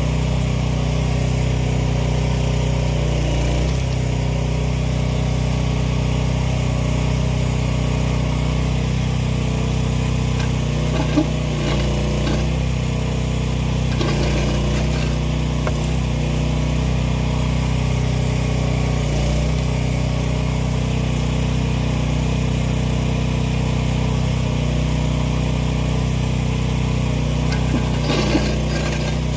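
The 15-horsepower gasoline engine of an AGT 1-ton mini excavator running steadily while the machine works, with two brief knocks, one about a third of the way in and one near the end.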